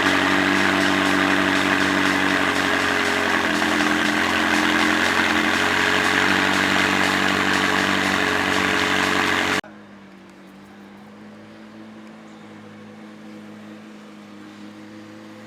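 A car engine idling steadily, loud and close. About ten seconds in the sound cuts off abruptly, leaving a much quieter steady engine hum.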